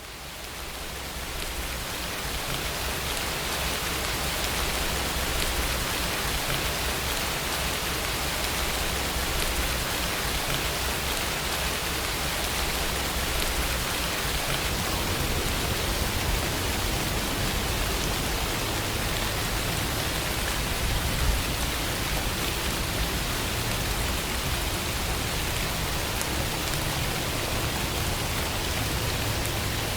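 Steady rainfall, an even hiss of rain that fades in over the first few seconds and then holds level.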